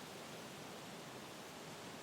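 Wind blowing through trees: a steady, faint rustling hiss.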